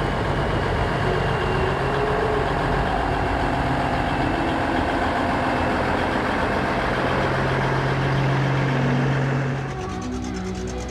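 A car engine running at idle, a steady low hum. Near the end it fades and music comes in.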